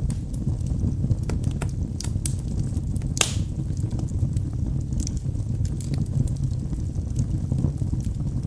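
Wood fire burning in a fireplace: a steady low rumble of the flames with many small crackles and pops from the burning logs, and one louder crack about three seconds in.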